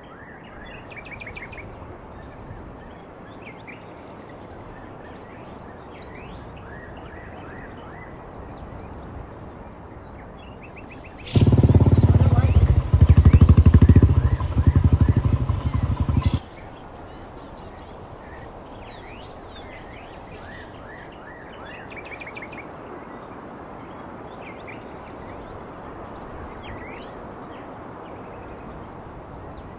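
Birds chirping over a steady outdoor hiss. About eleven seconds in, a loud motorcycle engine sound lasts about five seconds and starts and stops abruptly.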